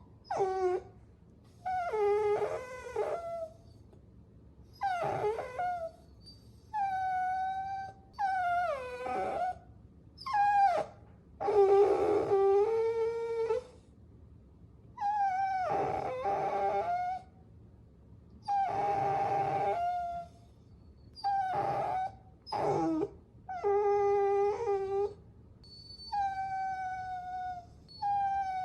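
Puppies whining: a string of about a dozen high, drawn-out whines and whimpers with short pauses between, many of them sliding down in pitch, and at times two pups whining at once.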